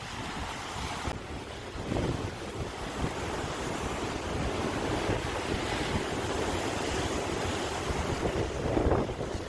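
Ocean surf washing ashore, with wind rumbling on the microphone. The wash swells about a second in and is loudest near the end.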